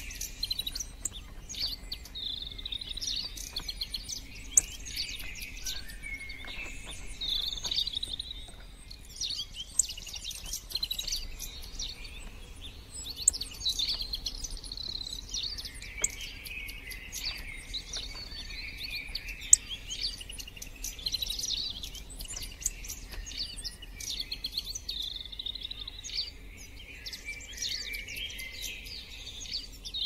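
Small birds chirping and twittering continuously in quick, high-pitched runs, with scattered sharp clicks.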